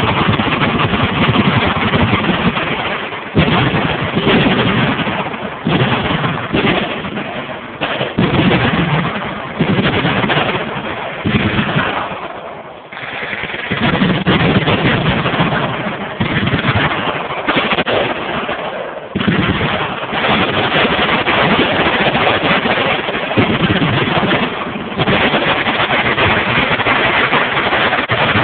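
Sustained automatic gunfire from many machine guns firing at once, a dense near-continuous rattle with fresh bursts starting every few seconds.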